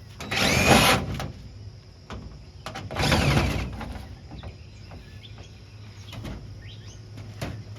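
Handheld power drill whirring in two short bursts, each about a second long, with its pitch shifting as it spins up and runs down. Light clicks and knocks of work on the car body come between the bursts.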